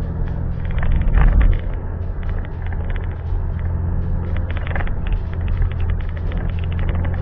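A car being driven, with a steady low rumble from its engine and the road.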